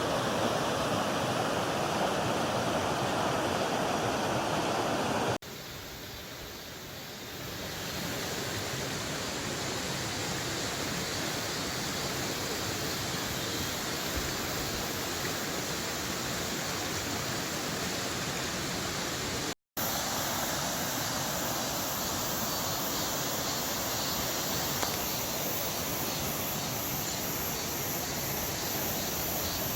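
Mountain stream rushing over rocks, a steady hiss of running water. It is loudest for the first five seconds, drops sharply, and cuts out completely for a moment about twenty seconds in.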